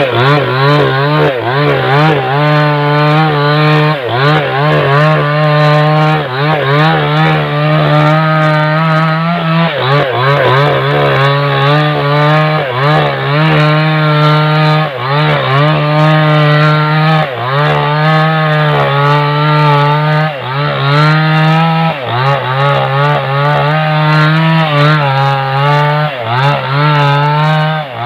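Small chainsaw running at high revs while cutting through a driftwood log, its engine note sagging and recovering every second or two as the chain bites into the wood.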